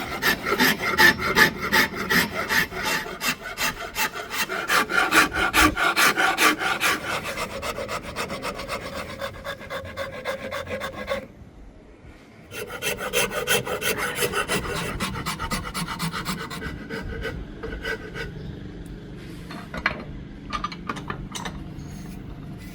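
Rapid, rhythmic strokes of a hand rasp on the wood of a Siamese rosewood axe handle as it is shaped. The strokes stop briefly about halfway, resume, then slow and thin out to a few scattered strokes near the end.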